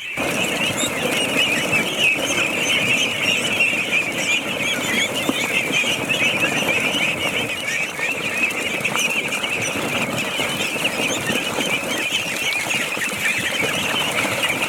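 Many birds chirping at once in a dense, continuous chatter that starts suddenly.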